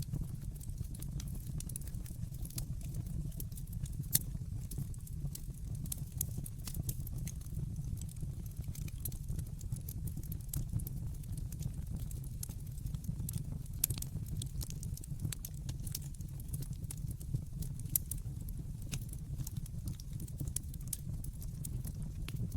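Wood fire burning in a fireplace, crackling with many small snaps and occasional louder pops over a steady low rumble of the flames.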